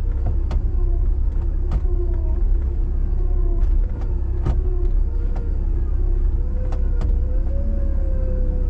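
Jeep Wrangler LJ driving: a steady engine and drivetrain rumble with a held tone, broken by a dozen or so sharp knocks and rattles as it goes over bumps.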